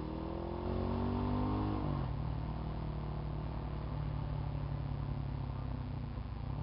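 Kawasaki Ninja 636 sport bike's inline-four engine accelerating, its pitch rising for about two seconds, then dropping at a gear change and running on steadily.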